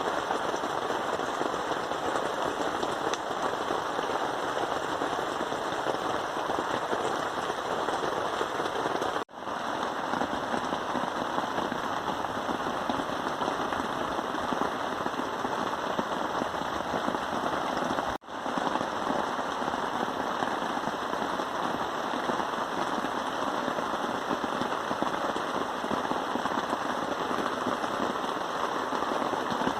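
Heavy rain pattering steadily, dropping out for an instant twice, about a third and about two thirds of the way through.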